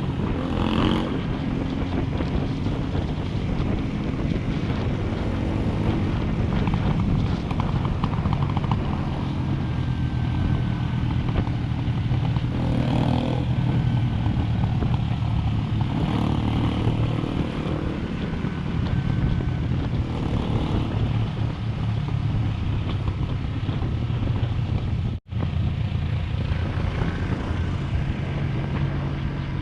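Motorcycle engine running steadily while riding, with wind and road noise over the microphone; the sound cuts out for an instant about 25 seconds in.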